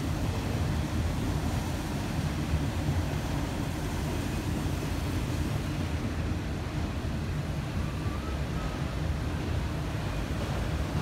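Freight train of autorack cars rolling past, a steady low rumble of steel wheels on rail.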